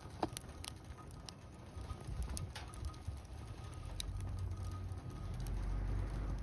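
Wood fire crackling in a small fire pit, with irregular sharp pops and clicks over a low rumble that grows louder in the second half.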